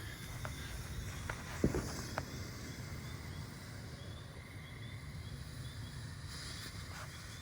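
Quiet outdoor night ambience during a lull between firework shots: a steady low rumble, a few faint knocks, the loudest about a second and a half in, and faint high insect chirping.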